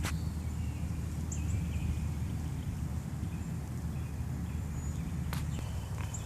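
Wind buffeting the microphone as a steady low rumble, with small birds chirping briefly in short high notes and a few sharp clicks.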